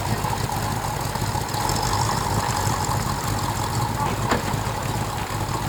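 Car engine idling steadily, with a faint click about four seconds in.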